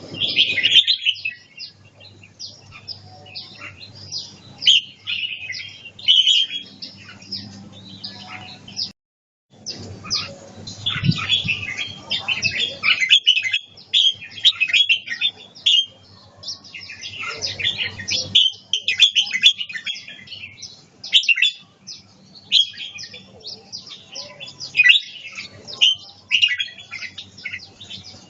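Red-whiskered bulbul singing: repeated short phrases of quick, bright chirping notes with brief pauses between them. The sound cuts out briefly about nine seconds in.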